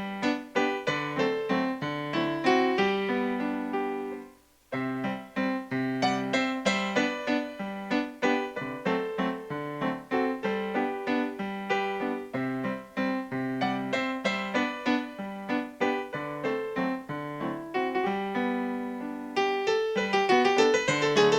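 Piano music: a melody of struck notes over lower held notes. It breaks off briefly about four and a half seconds in, then carries on.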